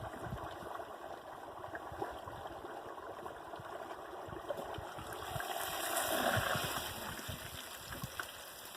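Turkey deep-frying in a pot of oil at about 350 degrees: a steady bubbling sizzle with small crackles, swelling a little about six seconds in.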